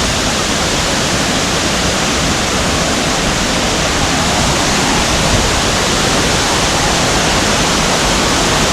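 Steady, loud rush of falling water from the Kuang Si waterfall.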